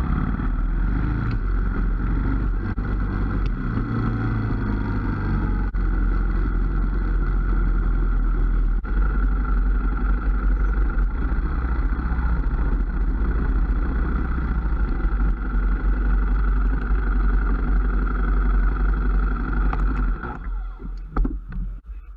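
Motorcycle running steadily at road speed, its engine note and the wind rush heard from the rider's own camera. The sound breaks up and drops away near the end.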